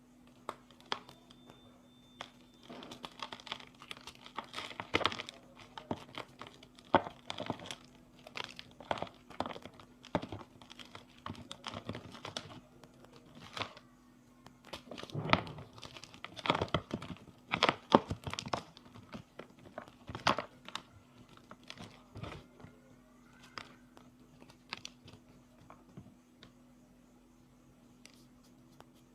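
Hard blocks of reformed gym chalk being crushed and crumbled: irregular crisp crunches and cracks, thickest through the middle and thinning out near the end.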